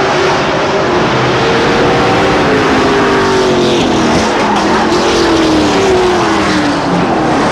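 Several racing trucks' engines running hard on a short oval track, their pitch dropping as they pass one after another.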